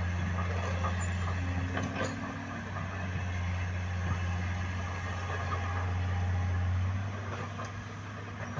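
Heavy diesel engine running steadily with a deep low hum, and a few faint knocks about two seconds in and near the end.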